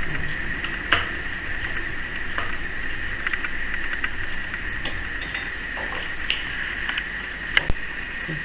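Small handling noises of the chow mein noodle nests in their paper cupcake liners and tray: scattered light clicks and taps over a steady high hiss, with two sharp clicks near the end.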